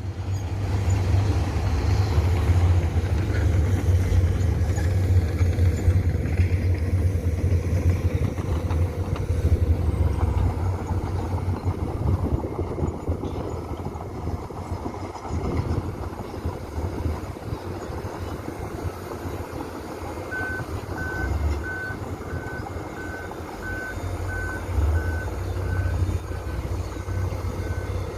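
Heavy diesel earthmoving machinery running steadily, louder over the first twelve seconds or so. From about two-thirds of the way through, a reversing alarm beeps about three times every two seconds.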